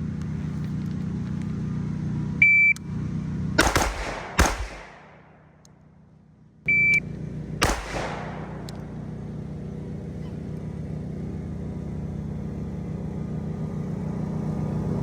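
A shot timer's start beep, then a quick string of pistol shots about a second later; a second beep a few seconds on is followed by a single shot. A steady low hum runs underneath.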